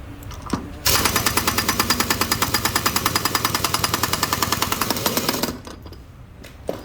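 A pneumatic impact tool hammering rapidly at about a dozen blows a second. It starts abruptly about a second in and stops after about four and a half seconds.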